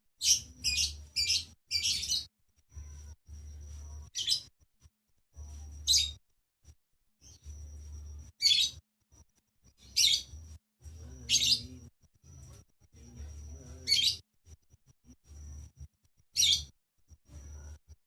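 Lovebirds chirping: short, sharp, high-pitched calls, a quick run of four in the first two seconds, then single calls every couple of seconds.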